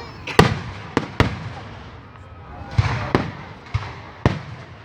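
Fireworks going off: about six sharp bangs at uneven intervals, spread over the few seconds, with some crackle between them.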